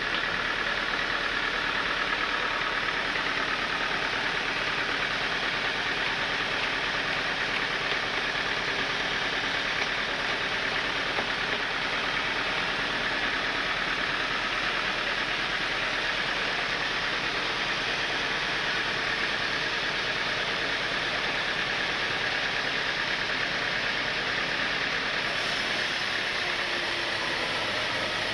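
Sawmill machinery running steadily: a loud, even mechanical noise that holds without pause and changes slightly near the end.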